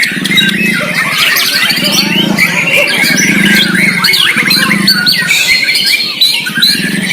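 Several white-rumped shamas (murai batu) singing at once in fast, varied, warbling phrases, over a low pulsing hum.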